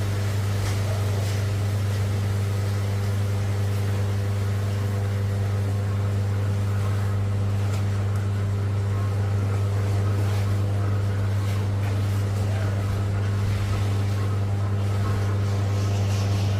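A motor running at a steady speed: a constant low hum with a faint hiss over it.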